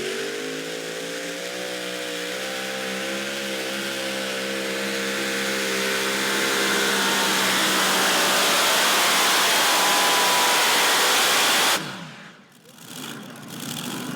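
Pulling tractor's engine at full throttle under load: a rising then steady high engine note that grows louder and rougher for several seconds, then cuts off abruptly about twelve seconds in, with a quieter engine sound returning near the end.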